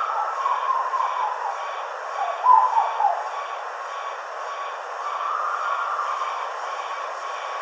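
Black-billed koel calling: series of short falling whistled notes, about two to three seconds in, then a longer held note partway through.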